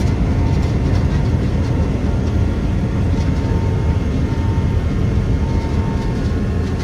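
Steady rushing cabin noise inside a Boeing 777-300ER jet airliner, with faint steady tones above it.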